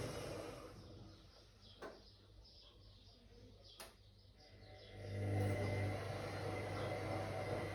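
Whirlpool AWOC 8283 washing machine's motor humming, then winding down about a second in; two sharp clicks sound in the pause, and the motor starts up again about five seconds in.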